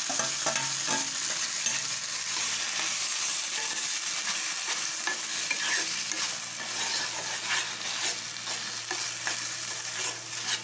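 Grated cooked pumpkin sizzling in hot ghee in a nonstick kadhai while a spatula stirs and scrapes it, a steady frying hiss broken by repeated scraping strokes: the pumpkin being sautéed at the start of making halwa.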